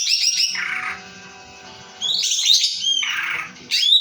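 Cucak ijo (green leafbird) singing loud bursts of rapid trills and sharp whistled notes. One phrase ends about half a second in, another runs from about two seconds in for a second and a half, and a third starts near the end.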